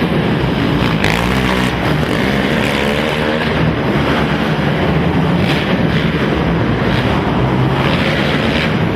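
Several racing quad (ATV) engines running hard and overlapping, their pitches rising and falling as riders throttle on and off. The sound is loud and continuous.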